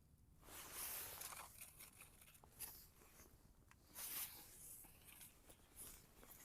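Dry tinder and twigs being handled: faint rustling and tearing in two louder spells, about half a second in and about four seconds in, with scattered small snaps.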